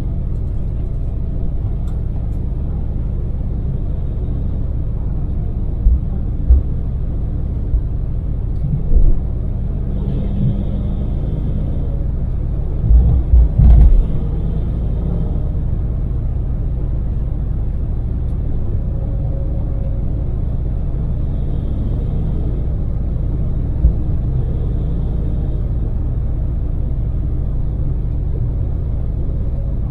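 Daewoo Damas LPG microvan driving at expressway speed, heard from inside the cab: a steady low rumble of engine and road noise. Several short, loud, low thumps break in, a cluster of them about halfway through and single ones earlier and later.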